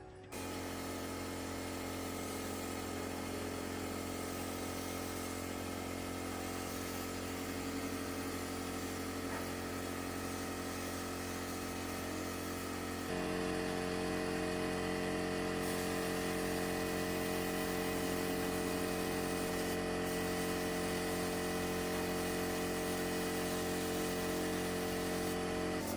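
A motor running with a steady hum. It starts abruptly and gets louder and fuller about halfway through.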